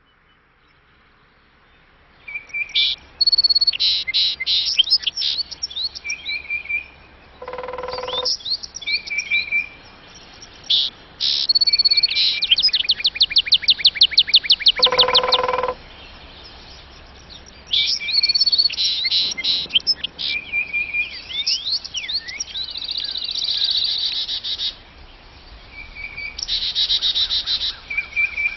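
Several songbirds calling and singing: many short high chirps, whistles and trills, including a fast run of rapidly repeated notes, and twice a lower, deeper call.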